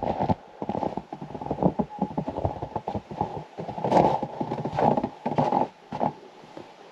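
Footsteps crunching in snow, a quick irregular run of short crunches.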